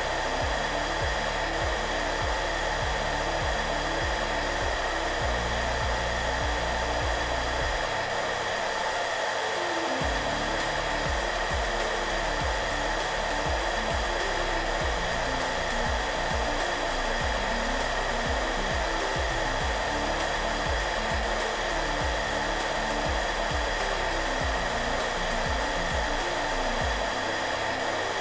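Hair dryer blowing steadily, a constant even whoosh used as white noise. Soft background music plays underneath, its low notes changing slowly.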